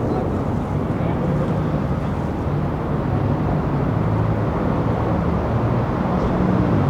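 Steady low engine hum of a motor vehicle, a rumble with a droning tone that holds through.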